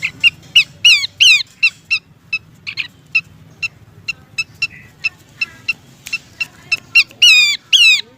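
Pelanduk semak (Horsfield's babbler) calling: a fast, irregular series of short sharp chips, broken by a few louder notes that slide steeply down in pitch, about a second in and again near the end.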